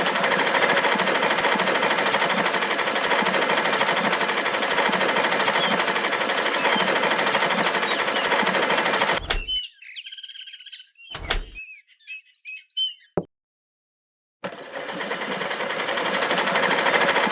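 Mini water pump running with a steady noisy whir. About nine seconds in it cuts out, leaving a few seconds of bird chirps and near silence, then the whir starts again near the end.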